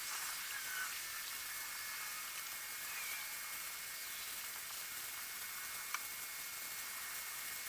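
Steady high hiss of outdoor ambience with a few faint bird chirps and a single click about six seconds in.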